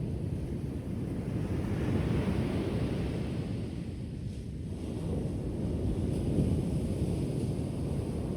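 Ocean waves surging and washing onto the shore: a steady low rumble, with a wave swelling into a hiss about two seconds in and another about six seconds in.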